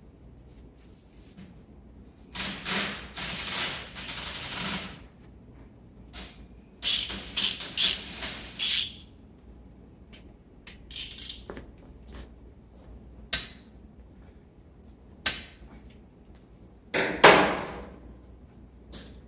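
Metal brake parts, pads and shims, clinking, clicking and scraping as they are handled. It comes as irregular clusters of knocks and rattles, the loudest clatter near the end.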